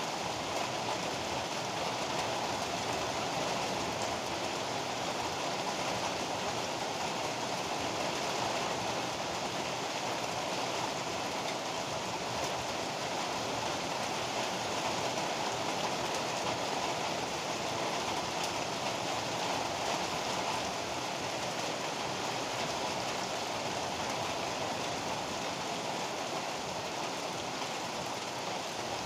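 Heavy rain pouring steadily, an even rushing hiss with no thunderclaps and no change in strength.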